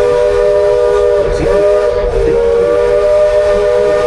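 Steam locomotive's chime whistle sounding one long sustained chord of several close notes, with slight wavers in pitch.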